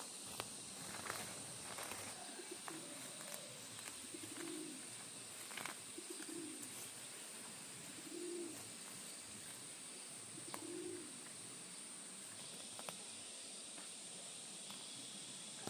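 A dove cooing outdoors: five low, short coos spaced about two seconds apart, over a steady high-pitched hiss and a few faint clicks.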